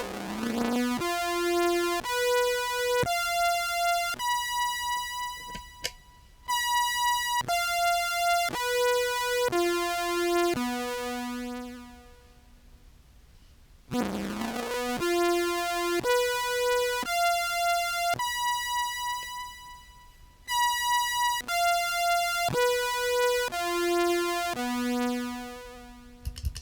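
Synth tone from a Meris Enzo tracking a contrabass clarinet through an EHX POG2 and reverb, playing a phrase of about ten held notes, then repeating it after a short pause. On the lowest note of the phrase the synth starts to track poorly.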